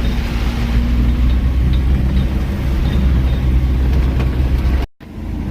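Strong typhoon wind buffeting a moving car, over a heavy low rumble of engine and road noise with a steady low hum. The sound cuts out abruptly for a moment near the end, then comes back quieter.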